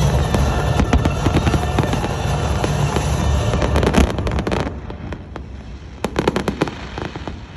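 Fireworks exploding and crackling in a dense, continuous barrage for the first four and a half seconds or so, then thinning to scattered cracks and pops.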